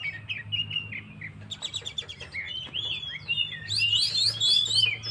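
Oriental magpie-robin (kacer) singing in full voice: a varied string of whistled notes and slurs, ending in a quick run of rising notes.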